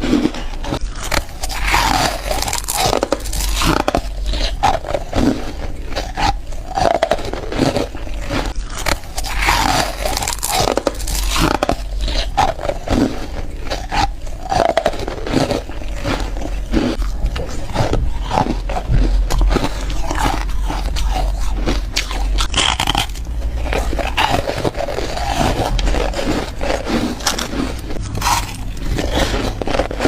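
Foam ice being bitten and crunched at the mouth, one crunchy bite after another with scraping grinding between them, continuous and loud.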